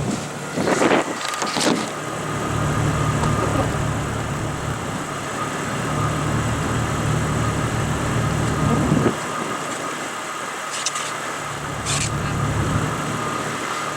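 Jeep Cherokee engine running at low speed, heard from inside the cab, its note swelling and easing with the throttle. There are a few sharp knocks early on and two short high clicks near the end.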